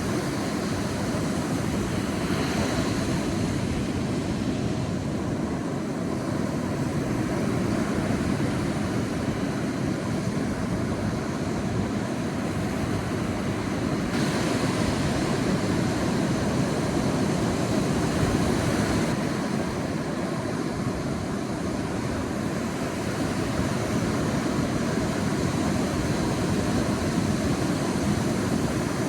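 Sea waves breaking on a beach in a steady surf wash, with a low rumble underneath and swells of hiss every few seconds as waves come in.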